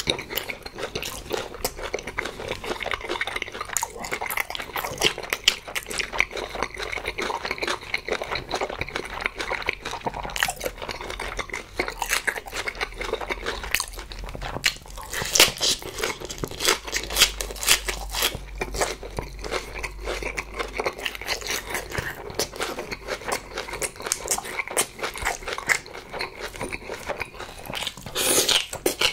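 Close-miked chewing of boiled pork wrapped in salted napa cabbage, with wet crunching of the cabbage leaves throughout. Near the end comes a louder bite into a strip of kimchi.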